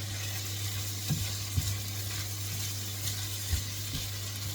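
Food sizzling in a hot pan, with a few short knocks of a utensil against the pan as it is stirred, over a steady low hum.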